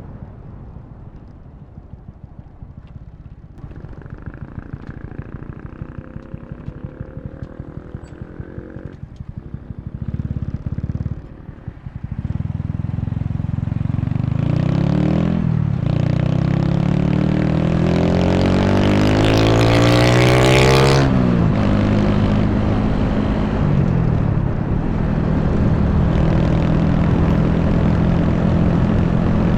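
Honda Wave 125 motorcycle's single-cylinder four-stroke engine pulling away, its pitch rising in several sweeps as it works up through the gears, with rushing wind on the microphone growing with speed. About two-thirds of the way in the pitch drops and the engine settles into a steady cruise.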